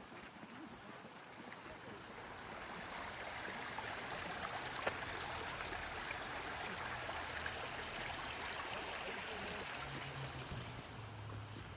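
Running water rushing steadily with a fine crackle, growing louder a couple of seconds in and easing again near the end.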